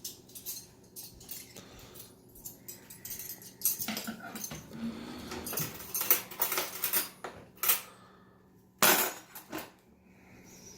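Dishes and cutlery clinking and clattering as a dishwasher is unloaded, in a string of short, sharp knocks with one louder clatter near the end.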